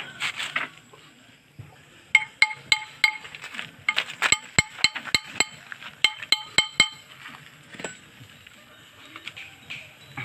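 Metal-on-metal strikes: a rapid run of about twenty sharp taps on a steel part, each leaving a brief ring. They begin about two seconds in and stop around seven seconds.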